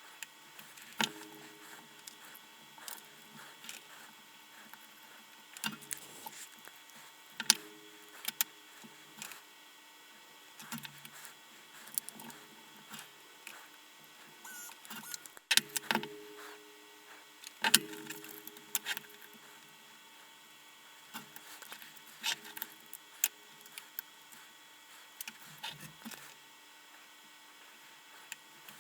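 Irregular small clicks and taps, some with a brief ringing note, from tools and parts being handled on a workbench while a battery pack's BMS is soldered up.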